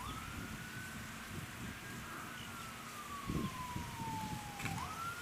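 A siren wailing slowly: one tone that climbs quickly, holds high for a couple of seconds, slides gradually down, then climbs again near the end.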